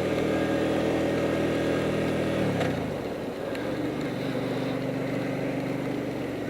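Motorcycle engine running at a steady pitch, then dropping in pitch about two and a half seconds in as the throttle is closed, and settling to a lower, steady note.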